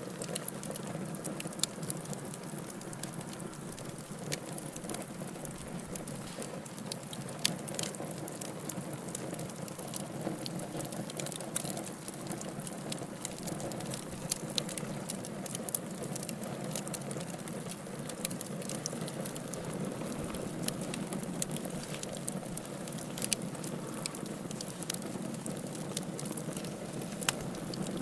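Fire crackling in a fireplace: a steady low rush of flames under frequent sharp pops and snaps, with a louder pop about seven seconds in and another near the end.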